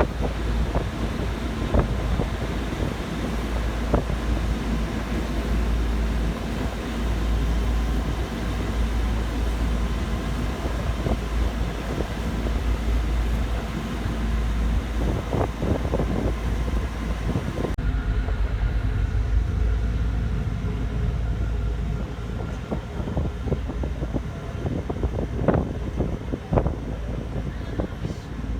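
Ferry engine running as a steady low rumble, with wind buffeting the microphone and scattered knocks. About 18 seconds in, the sound changes abruptly and the high hiss drops away.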